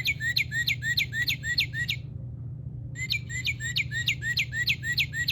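Recorded northern cardinal song played back from a toy bird: two runs of quick repeated slurred whistles, about five a second, with a pause of about a second between them.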